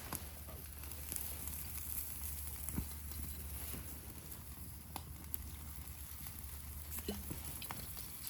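Campfire with yakitori grilling over it: faint, scattered crackles and small pops over a low steady hum.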